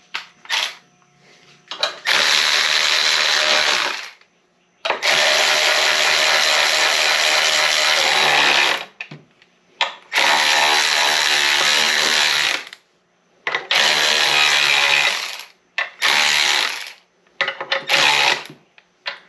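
Impact wrench run in repeated bursts of one to four seconds, seven in all, driving a puller bolt that presses against the transmission case to push a shaft bearing out.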